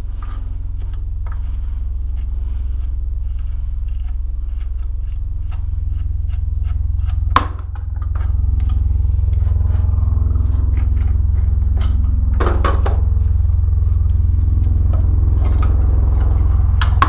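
Monkey bike's 110cc engine running at idle with a steady low rumble. About seven seconds in, a sharp metallic clack is followed by a brief dip in the engine note, which then runs on a little louder. A short scrape of metal on metal comes a few seconds later.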